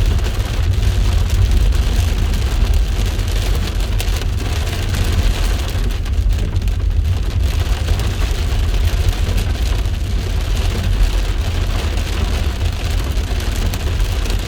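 Heavy rain falling: a steady hiss of many drop impacts with a strong low rumble underneath.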